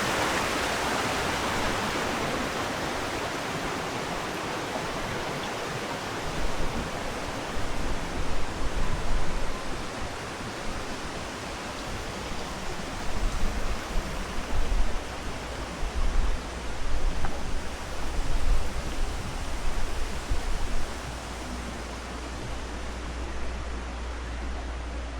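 Spring-fed stream water rushing steadily, louder at the start and easing over the first few seconds. Irregular low rumbles come and go through the middle and are the loudest moments.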